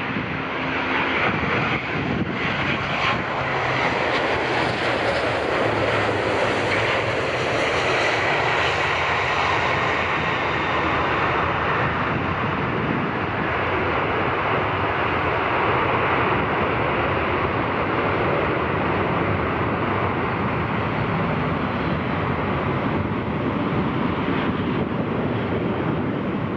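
Airbus A350's Rolls-Royce Trent XWB jet engines running, a loud and steady sound throughout.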